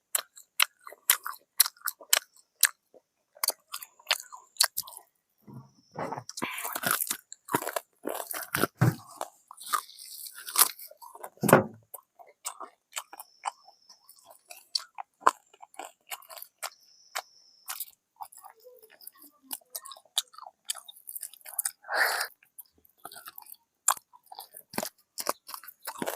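A person chewing and biting fried chicken close to the microphone: irregular crunches and wet mouth clicks, with denser, louder crunching partway through.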